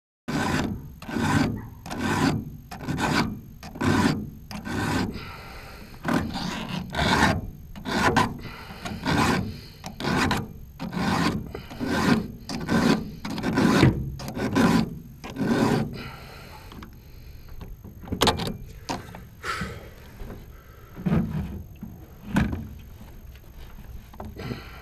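Hand file rasping across chainsaw chain cutter teeth in a Granberg filing guide, in steady strokes of about one a second. The strokes pause briefly about two-thirds of the way through, then carry on more unevenly.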